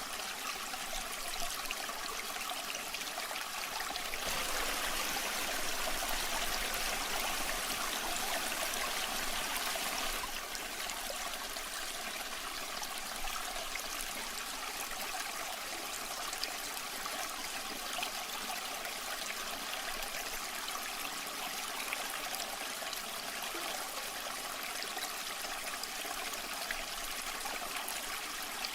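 Waterfall water rushing and splashing steadily, swelling a little louder between about four and ten seconds in.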